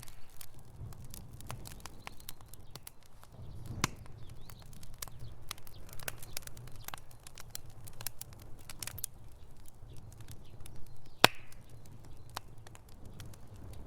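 Wood fire burning in a fireplace, crackling and popping with irregular sharp snaps over a low steady rumble, one louder pop about eleven seconds in.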